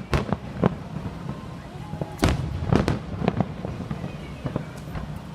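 Fireworks going off: a string of sharp bangs and pops, the loudest a couple of seconds in.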